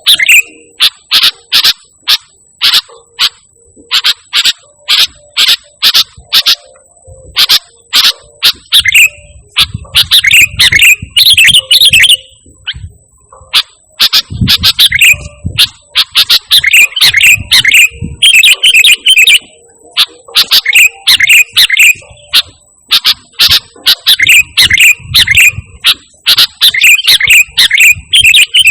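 Sooty-headed bulbul (kutilang) singing persistently: loud, short, sharp chirps, first as separate notes and then run together into quick rolling phrases.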